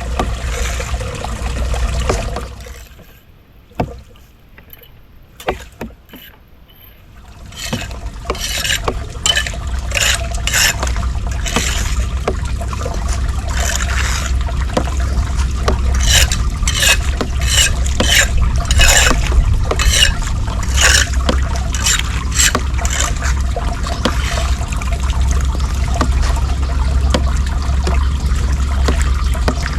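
Floodwater sloshing and splashing in repeated strokes, roughly one a second, over a low steady rumble. A quieter stretch with a few knocks comes a few seconds in.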